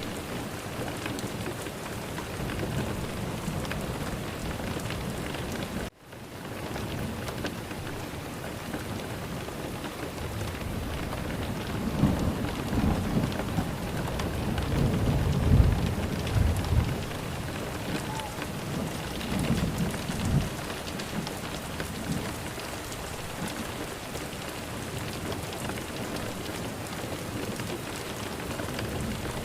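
Steady rain falling, with rolling thunder rumbling from about twelve seconds in, peaking near the middle and swelling again a few seconds later before fading back to rain alone. The rain cuts out for an instant about six seconds in.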